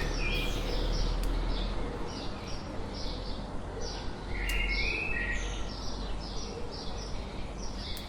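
Birds chirping: many short, quick calls one after another, over a steady low background noise.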